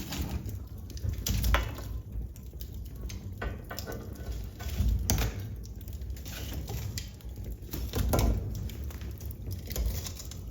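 Wood fire in a fireplace crackling, with irregular sharp pops over a low rumble.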